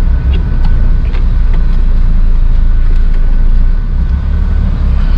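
Steady low rumble of a DAF truck's diesel engine running, with a few faint clicks.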